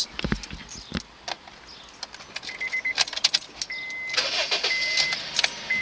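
Car keys jingling and clicking, then the car's warning chime sounding: a quick run of beeps, then steady beeps about once a second.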